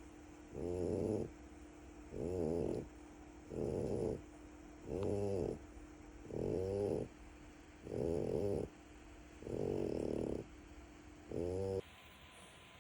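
French bulldog puppy snoring: eight regular snores about a second and a half apart, each lasting about half a second, breaking off suddenly near the end.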